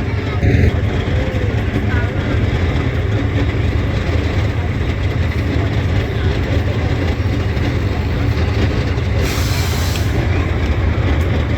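Heavy off-road truck's diesel engine running under load with a steady low rumble, and a short hiss of released air about nine seconds in.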